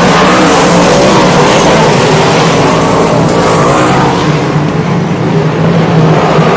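Several 360 sprint cars' V8 engines running hard together at racing speed, loud throughout. The higher, harsher part of the sound falls away about four seconds in as the pack moves off, leaving the lower engine note.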